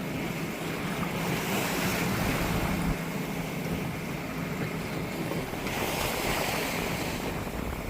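Rough, choppy sea rushing and slapping around a sailboat's hull, with wind buffeting the microphone; the rush swells twice.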